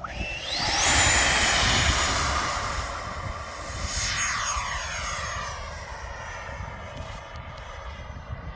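Electric ducted fan of a Freewing F-22 RC jet spooling up to full throttle with a steeply rising whine, loudest a second or two in. A few seconds later the jet passes by with its pitch sliding down, then holds a steady high whine as it flies away.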